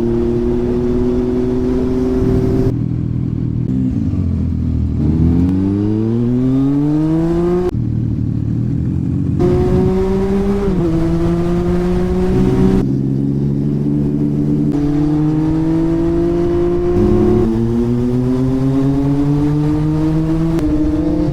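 Zontes 703RR three-cylinder motorcycle engine accelerating hard through the gears, its pitch rising steadily and dropping back at each upshift, several times over. Around four seconds in the revs sink low before climbing again.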